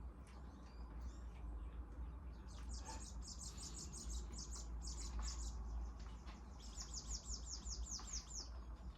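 A small bird chirping in two quick runs of short, high, falling notes, the first a couple of seconds in and the second near the end, over a steady low hum.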